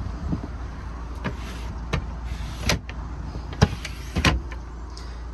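Cupboard doors, drawers and their catches in a VW California camper's kitchen unit being opened and shut: a handful of sharp clicks and knocks, the loudest about three and a half seconds in, over a steady low rumble.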